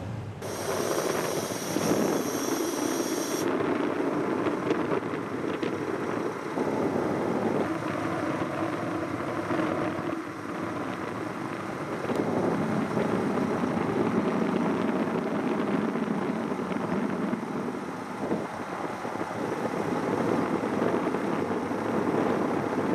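Distant diesel railcar running, a steady rumble with a droning engine note that comes and goes.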